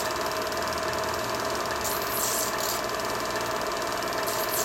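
Film projector running: a steady whirr with a fast, even clatter.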